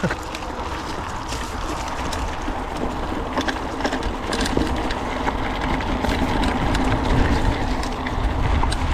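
Mountain bike ridden along a dirt trail, heard from a GoPro action camera: steady tyre and wind noise with a deep rumble, and many sharp rattles and clicks from the bike over bumps.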